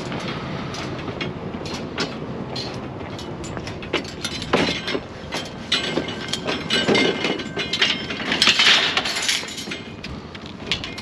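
Irregular clattering and knocking of loose junk and metal, over a steady noisy rumble, with a brief hissing scrape about two-thirds of the way through.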